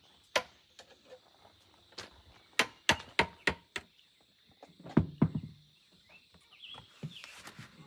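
A series of irregular sharp knocks and thuds, about eight over five seconds, with a faint steady high-pitched whine behind them.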